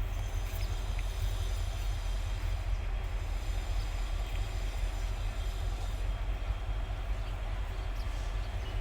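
Long-hood diesel locomotive on a container freight train, running with a steady low rumble.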